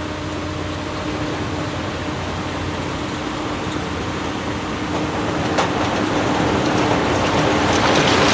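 Diesel engine of heavy earthmoving machinery running steadily, getting louder through the second half. There is a single sharp click a little over five seconds in.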